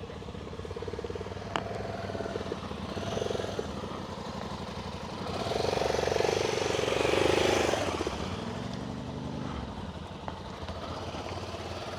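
Adventure motorcycle engines idling steadily. About five and a half seconds in, one bike gets louder for a couple of seconds, then its engine note rises and falls once.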